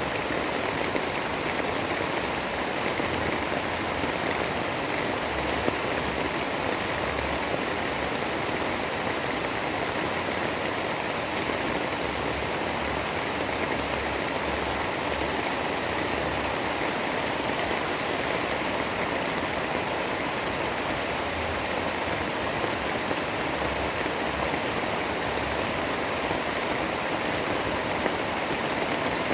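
Steady, unbroken rushing noise of a storm soundscape, with faint scattered ticks through it.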